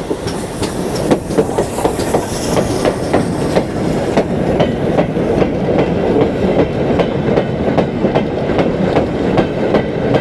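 Train rolling along the track, its wheels clicking over the rail joints in a steady repeating rhythm.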